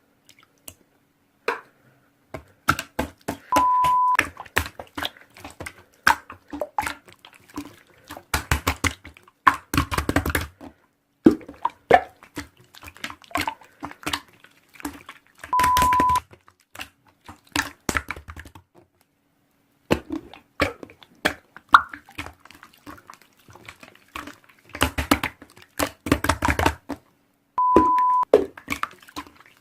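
Slime being squeezed, poked and stretched by hand: irregular sticky clicks and pops, with denser crackling runs as air pockets in the slime burst. Three short steady beeps break in about twelve seconds apart.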